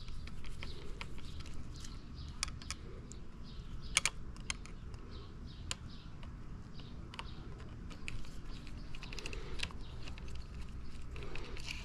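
Scattered small clicks and taps of a Phillips screwdriver and handlebar parts being worked as screws are loosened, with one sharper click about four seconds in.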